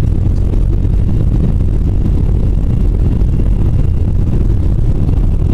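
Steady, loud, low rumble of an airliner's engines and airflow heard inside the passenger cabin.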